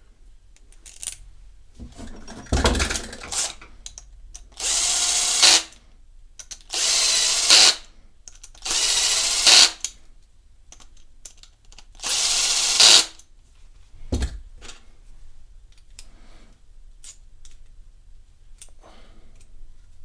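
Power drill-driver running in four short bursts of about a second each, driving screws, with a knock before the first and another after the last.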